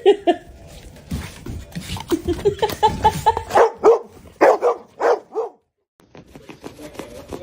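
A dog barking and yipping in a run of short pitched calls, which stop about five and a half seconds in.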